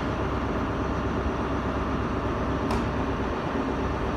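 Class 43 HST power car's diesel engine idling steadily while the train stands at the platform, with a brief click about two-thirds of the way through.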